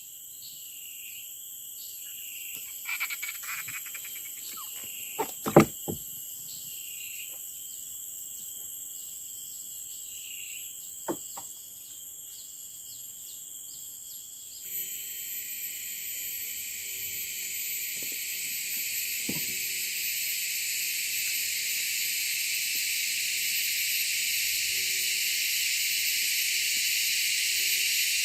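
A chorus of insects in riverside forest: a steady high-pitched trilling, with a louder, hissing chorus taking over about halfway through. There are a few sharp knocks in the first half.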